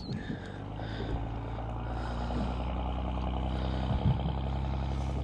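A boat engine running steadily, its low hum setting in about half a second in and growing louder over the next couple of seconds before holding level.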